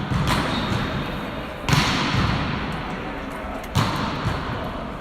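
Volleyball being struck during play: three sharp smacks about one and a half to two seconds apart, each trailing off in a long echo in the gym.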